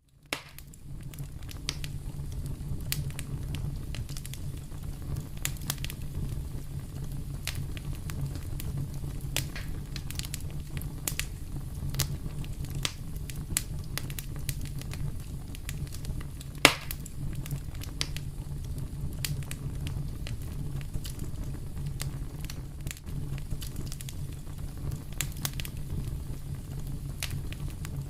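Wood fire in a fireplace crackling: a steady low rumble of burning with frequent sharp pops and snaps, one much louder pop about seventeen seconds in. The sound fades in over the first second.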